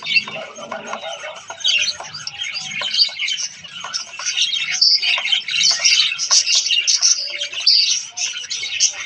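A colony of zebra finches calling all at once: a dense, continuous chatter of short nasal beeps and chirps from many birds overlapping.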